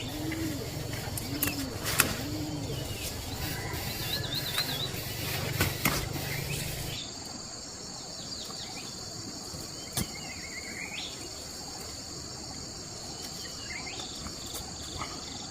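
Outdoor insect drone, steady and high, with scattered bird chirps and trills. In the first couple of seconds there are low, repeated cooing calls, and a few sharp knocks fall in the first half. The background changes abruptly about seven seconds in.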